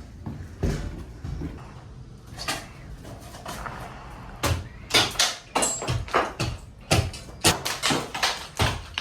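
Demolition work: a run of irregular sharp bangs and knocks, a few at first and then quicker and louder through the second half.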